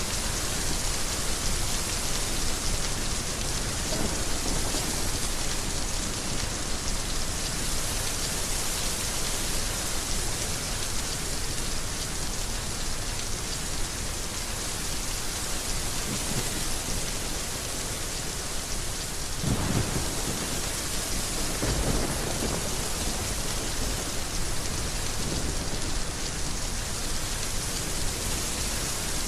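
Heavy rain falling steadily, with thunder rumbling low twice about two-thirds of the way through and faintly once near the start.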